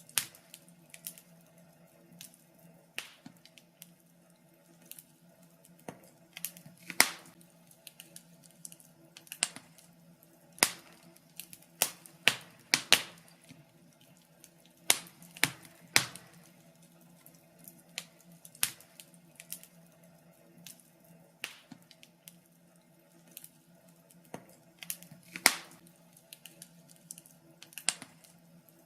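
Fire crackling: irregular sharp pops and snaps, some much louder than others, over a faint steady low hum.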